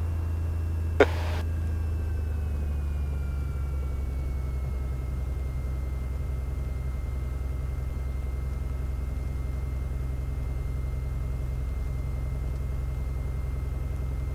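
Cessna 182 piston engine running steadily at low power, a continuous low drone with a faint whine above it that eases slightly lower in pitch in the first few seconds and then holds. A single short click comes about a second in.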